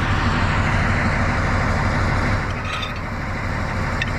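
Diesel engine of a TU7A narrow-gauge locomotive idling steadily, dipping slightly a little past halfway, with a few faint clicks later on.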